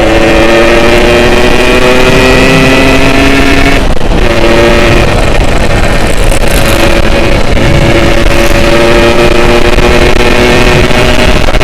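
Yamaha RX two-stroke motorcycle engine under way, its pitch climbing steadily as it accelerates. The pitch breaks off about four seconds in, like a gear change, then climbs again.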